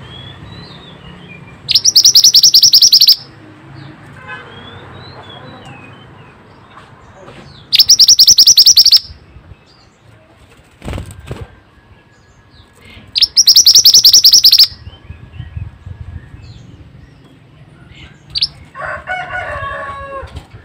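Mantenan birdsong from a lure recording: three loud, rapid, high-pitched trills, each about a second and a half long and several seconds apart, with faint chirps between them.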